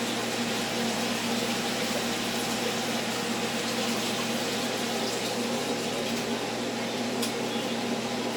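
Steady hiss of food cooking in a pan on the stove, over a constant low electric hum.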